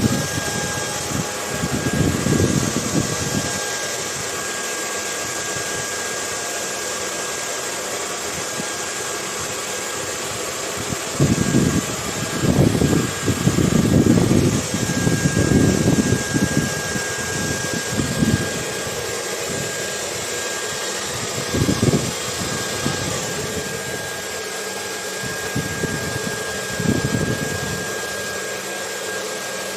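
Hair dryer running steadily, a constant rushing hiss with a thin high whine, mixed with irregular gusts of low wind rumble that swell and fade several times.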